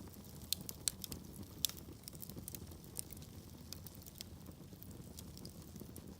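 Wood fire burning in a fireplace: a steady low rumble of flames with frequent sharp crackles and pops of burning logs, a few louder snaps in the first two seconds.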